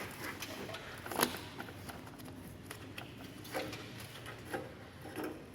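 Scattered light clicks and taps of hands working at an air conditioner's pipe connection and insulation, with one sharper click about a second in.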